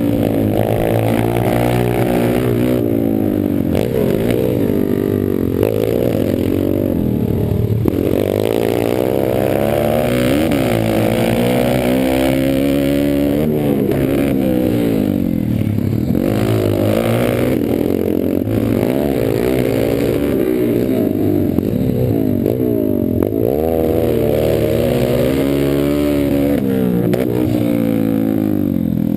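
Pit bike engines racing on a motocross track, the revs rising and falling continually with throttle and gear changes, more than one engine at times.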